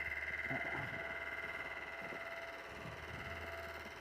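A steady high-pitched whine over a low hum, with a few faint soft knocks; the source of the noise is unknown.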